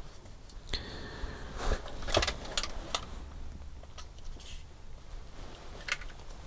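Small plastic kit parts and hand tools handled on a workbench: a scatter of light clicks and short rattles, loudest about two seconds in.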